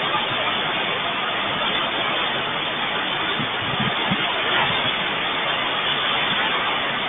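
Rain falling, a steady even hiss with no thunder.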